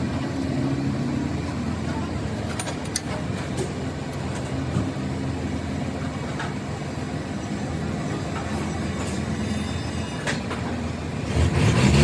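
A motor vehicle engine running steadily at low revs, with a few light clicks. About 11 seconds in it gets louder as the engine revs up.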